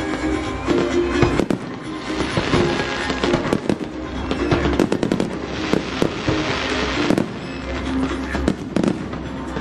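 Fireworks going off in a rapid, irregular series of bangs and pops, with a swell of crackling hiss a little past the middle, over music playing.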